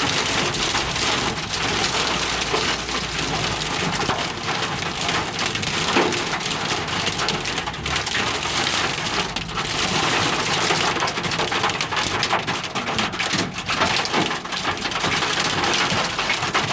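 Heavy wind-driven rain pelting a car, heard from inside the cabin: a dense hiss of countless drops hitting the body and glass, swelling and easing with the gusts.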